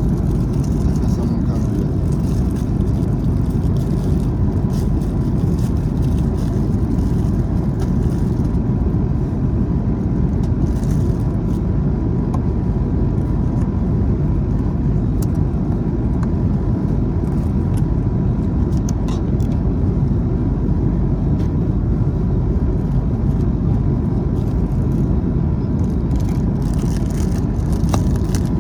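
Steady, loud rush of a jet airliner's engines and airflow heard from inside the passenger cabin, with a thin steady whine above it.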